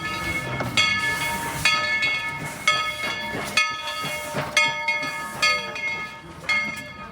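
Steam locomotive bell ringing steadily, about one stroke a second, as the train comes into the station, with steam hissing underneath.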